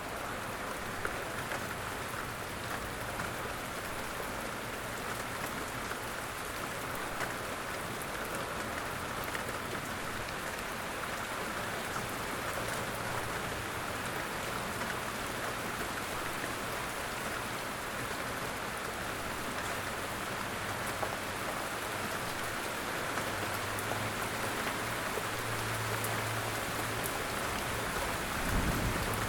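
Light rain falling steadily in woodland, a dense hiss flecked with individual drop hits. A faint low hum comes in over the last several seconds, and there is a soft low thump near the end.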